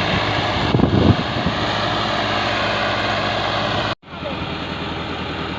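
Tractor engine running steadily, with a brief low rumble about a second in. The sound cuts out for an instant about four seconds in and resumes the same.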